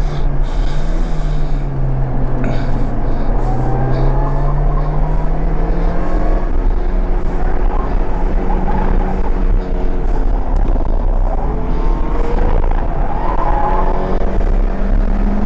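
Mini Cooper S four-cylinder engine pulling hard on track, its revs climbing and dropping several times through the gears, over a steady rush of road and wind noise.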